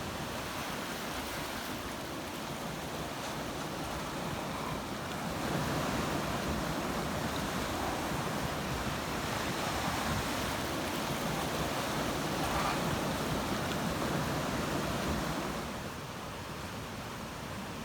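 Ocean waves washing ashore: a steady rushing surf that swells about five seconds in and eases off near the end.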